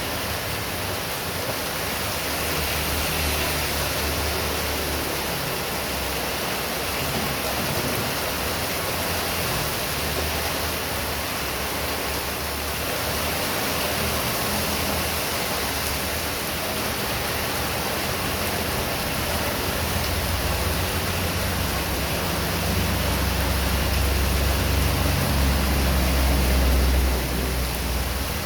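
Heavy rain pouring steadily, with a low rumble underneath that grows louder in the last few seconds.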